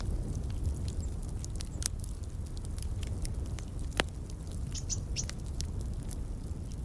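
Wood fire crackling in a fireplace: a low steady rumble under many small snaps, with one louder pop about four seconds in. A few short, high bird chirps come just after the pop.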